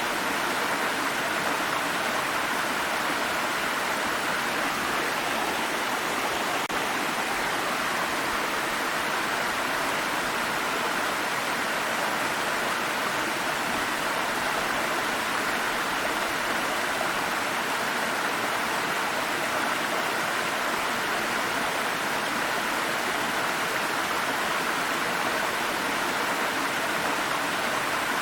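Water stream rushing and babbling over rocks in a steady, unbroken flow.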